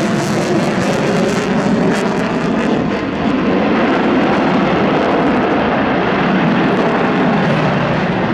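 Loud, steady jet noise from a USAF F-22 Raptor's twin turbofan engines during its flying display, with a crackling edge over the first three seconds.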